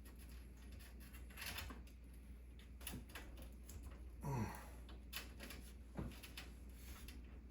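Faint clicks and rustles of cables being handled and pushed through a PC case, with a brief sliding sound about four seconds in.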